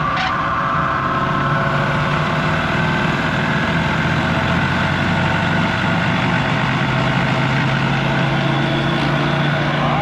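Prodex Model 2JSS high intensity mixer running at high speed with a powder charge in the bowl: a loud, steady motor and blade whir. A faint tone climbs a little over the first few seconds as it comes up to speed.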